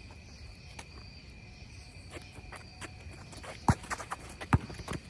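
A basketball bounced hard twice on the court near the end, under a steady high chirring of crickets and scattered small taps.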